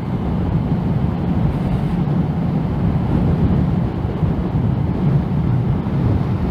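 Steady low wind roar over the microphone of a moving motorcycle, a Yamaha MT-09, at road speed, with the bike's engine drone mixed in.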